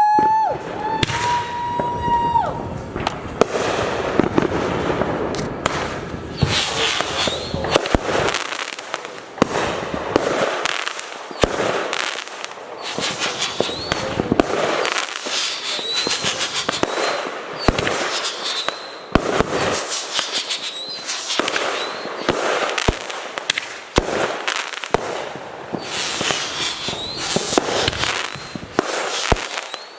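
Fireworks display: a whistling firework rises in pitch at the start and holds a steady whistle for about two seconds. Then comes a run of sharp bangs and dense crackling, with short rising whistles among them.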